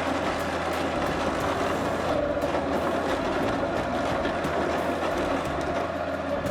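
Heavy forestry machinery working logs: a machine running steadily with continuous rattling and clatter.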